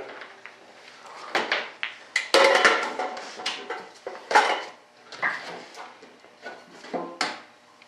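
Items being moved and set down on a workbench: an irregular clatter of knocks and clinks, loudest in a cluster a little past two seconds in and again at about four and a half seconds.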